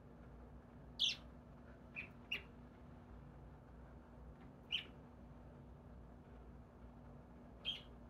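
A small bird at the window making five short, sharp, high-pitched sounds at uneven gaps: one about a second in, a close pair around two seconds, one near five seconds, and one near the end, over a faint steady hum.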